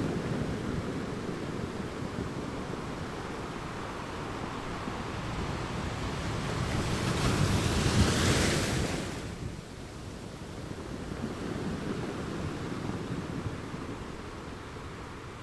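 Atlantic surf washing onto a sandy beach, with wind rumbling on the microphone. One wave breaks and rushes in louder about seven to nine seconds in, then drops away to a softer wash.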